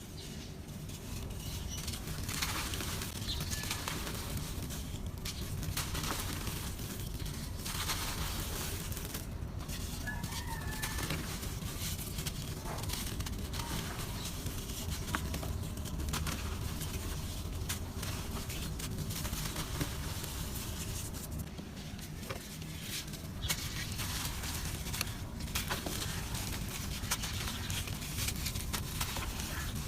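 Dry, grainy red dirt being crumbled, with many small crunches and crackles over a steady low rumble.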